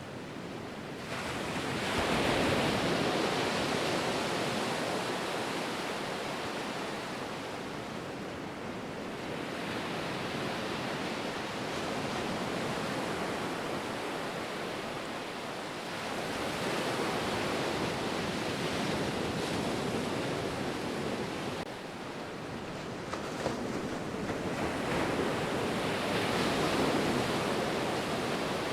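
Ocean surf: waves breaking and washing in, a continuous rush that swells and eases about every six to eight seconds.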